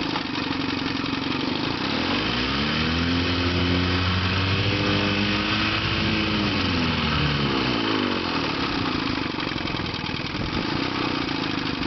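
1954 Johnson 5.5 hp two-stroke twin outboard motor running in reverse. Its pitch climbs about two seconds in, holds for a few seconds, and drops back to a lower speed about eight seconds in.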